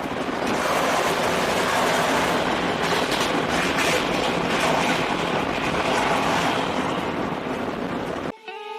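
A ChS2 electric locomotive and its passenger train going by: a steady, loud rush of wheels on rails with some faint clicks. The train sound cuts off abruptly near the end and music starts.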